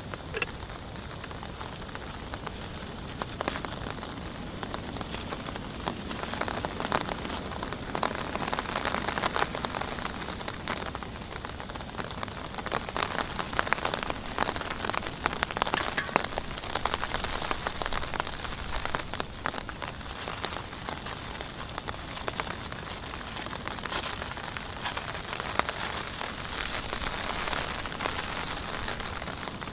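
Heavy rain falling steadily, with many sharp drop ticks close by. It grows heavier for a while in the middle.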